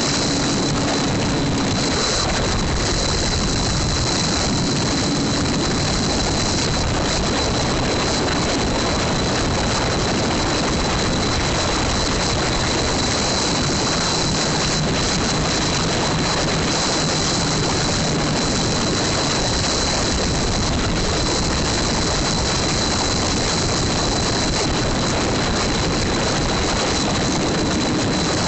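A small single-cylinder motorcycle engine running, mostly buried under a steady, loud rush of wind on the microphone while riding.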